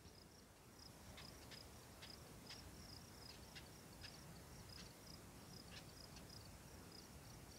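Near silence with faint outdoor wildlife: a high, thin chirp repeating a few times a second, with scattered short ticks.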